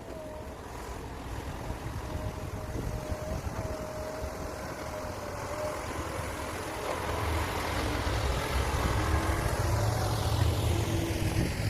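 Heavy diesel mining machinery running: a steady whine over an engine rumble, with the rumble growing louder in the second half.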